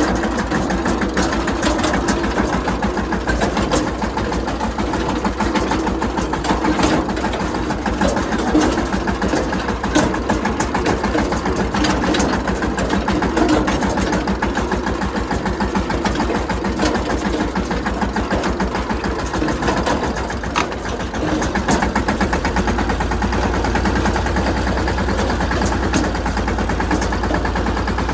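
Mahindra Yuvraj 215 tractor's single-cylinder diesel engine running with a rapid, even thumping. The sound dips briefly about twenty seconds in, then evens out with a stronger low rumble.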